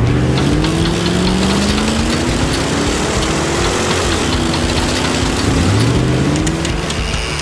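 Engine sound effect of a cartoon vehicle accelerating: the engine note climbs steadily in pitch for about four seconds, drops back, then climbs again near the end.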